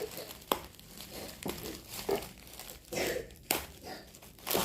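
Plastic packaging being handled and unwrapped, crinkling and rustling with irregular sharp crackles and clicks.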